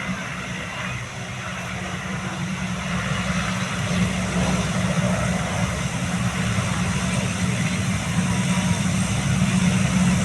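Four-engine turboprop of a C-130 Hercules transport running on the ground: a steady propeller drone with a low hum, slowly growing louder.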